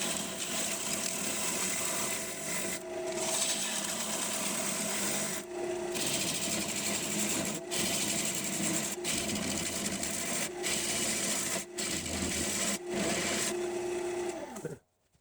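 Wood lathe running while a gouge cuts a green maple bowl: a steady hiss of shavings over the motor's hum, broken by several short breaks as the tool leaves the wood. It cuts off suddenly near the end.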